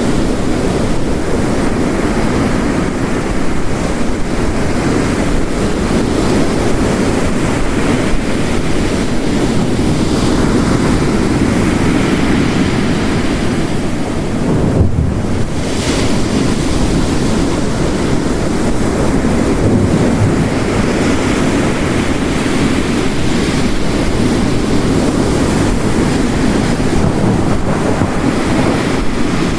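Ocean waves crashing on the shore, layered with heavy rain, in a dense steady wash that swells and eases slowly.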